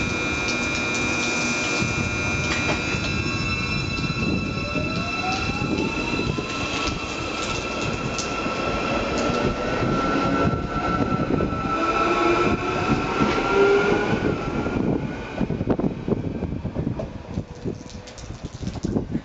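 Wellington Matangi FP class electric multiple unit pulling away. Its VVVF traction inverter whine climbs in pitch in several parallel tones as the train accelerates, a sound likened to a Seibu 9000 series. The sound peaks about two-thirds of the way through, then fades into rolling wheel and rail noise as the train moves off.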